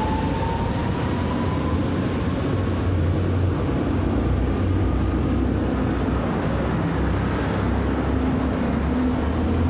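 Steady rushing of a waterfall, a loud, even wash of water with a deep low rumble underneath.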